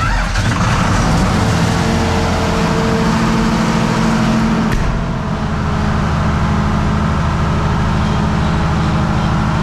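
Diesel generator engine running loud and steady, cutting in suddenly at full level. A higher steady tone in the sound drops out about five seconds in.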